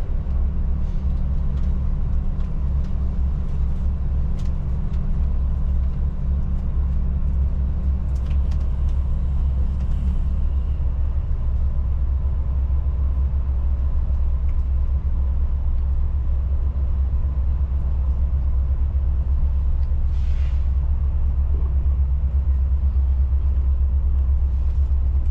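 Steady low rumble of a motor vehicle's engine.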